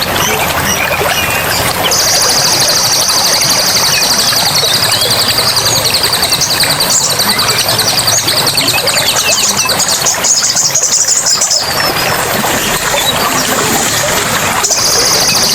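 Forest ambience of steadily running water, with a high, fast-pulsing trill that starts about two seconds in, stops about ten seconds in, and starts again near the end.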